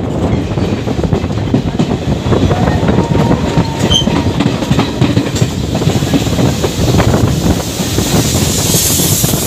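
Passenger express coaches running at speed, the wheels rumbling and clattering steadily over rail joints and points, with a faint brief squeal about three seconds in. A rushing hiss builds near the end.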